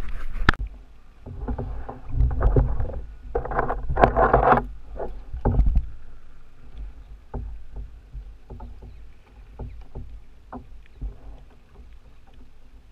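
Knocks and bumps on a kayak's hull over a low rumble, loudest in the first few seconds, then a run of scattered sharp knocks and clicks that grows quieter.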